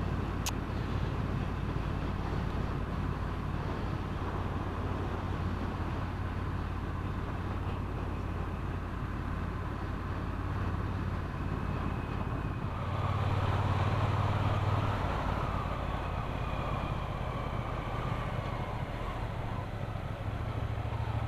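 Triumph Bonneville T120's parallel-twin engine running at a steady cruise under wind noise. About two-thirds of the way through it pulls harder for a couple of seconds, then eases back.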